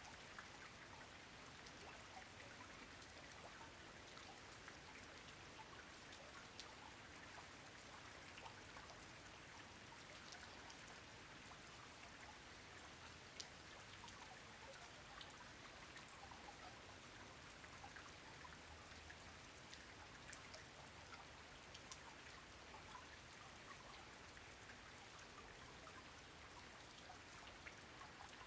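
Soft steady rain: a dense hiss of falling drops with many single drops ticking here and there, one sharper drop about halfway through.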